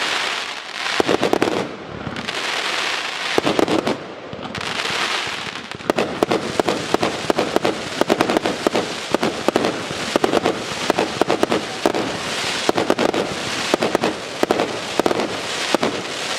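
A 144-shot, 1-inch (26 mm) consumer firework cake firing its salvos: repeated launch shots and aerial bursts. The shots are spaced out at first and come in a rapid, dense run from about six seconds in.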